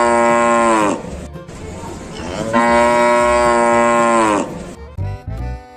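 A cow mooing twice: two long, level moos of about two seconds each, with the pitch dropping as each ends. Short bursts of percussive music come in near the end.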